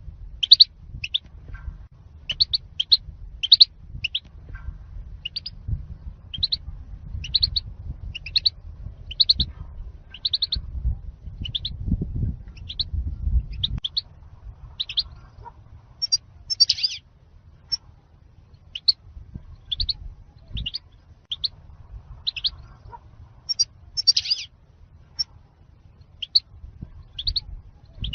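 European goldfinch calling: a steady string of short, high chirps, a little more than one a second, some calls louder and fuller than others.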